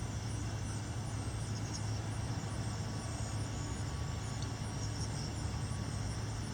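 Outdoor background: a steady low hum with insects trilling high and steadily.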